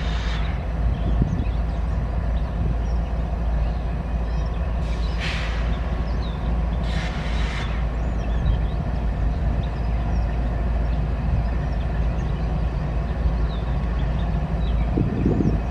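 CSX freight train rolling past, the steady low noise of its cars and wheels on the rail, with two brief hisses about five and seven seconds in.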